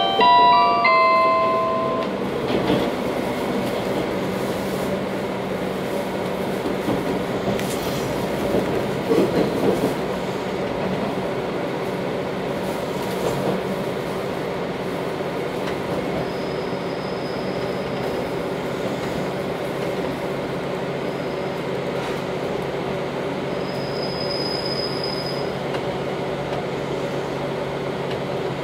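Interior of a passenger train running along the line: a steady rumble of wheels on rails with a low motor hum, a cluster of rattles about nine seconds in, and a thin high whine twice in the second half. The last notes of an electronic announcement chime sound in the first second.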